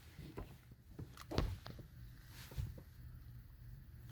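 Faint clicks and light knocks of items being handled inside a car's interior, with one slightly louder knock about a second and a half in, over a low steady hum.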